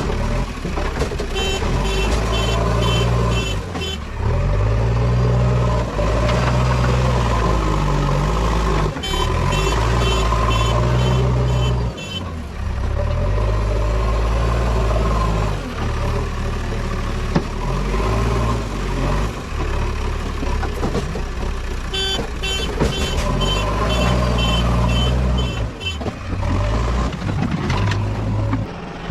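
JCB 3DX backhoe loader's diesel engine running hard, its pitch rising and falling as it works. A reversing alarm beeps about two to three times a second in three short spells.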